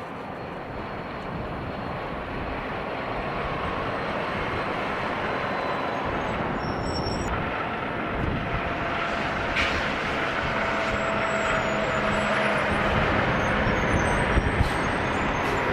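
Heavy diesel truck driving by on the road: a steady engine and tyre rumble that grows gradually louder, with a couple of short sharp clicks in the second half.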